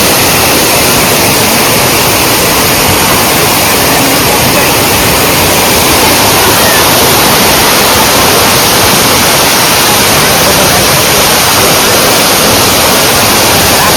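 Loud, steady roar of a waterfall: heavy water falling and crashing without a break.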